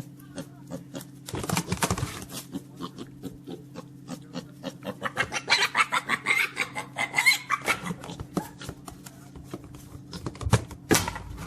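An animal making a rapid run of short sounds, busiest from about five to seven and a half seconds in, over a steady low hum.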